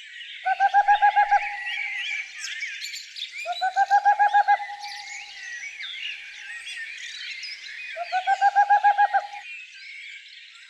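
Chorus of many small songbirds twittering and singing together. Three times, a louder, lower-pitched rapid trill of evenly pulsed notes, each about a second long, sounds over the chorus.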